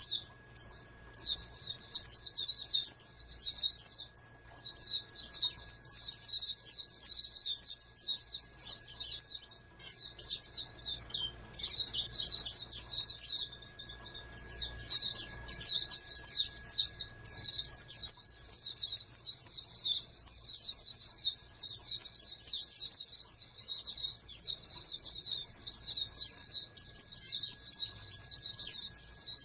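White-eye (pleci) songbird singing a long, fast, high twittering song in near-continuous runs, broken by a few brief pauses.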